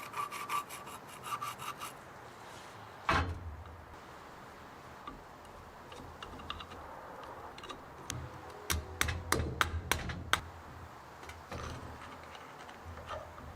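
Hand work on a carburetor being taken apart and rebuilt: rubbing and scraping with a quick run of light ticks at first, one sharp knock about three seconds in, then a cluster of sharp clicks and taps of small metal parts and tools near the ninth second.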